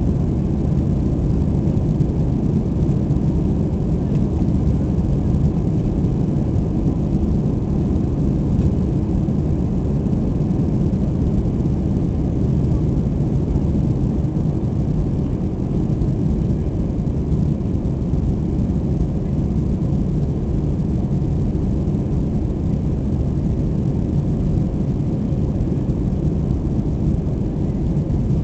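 Airbus A320 cabin noise during departure: a steady, deep rumble of jet engines and airflow that holds unchanged throughout.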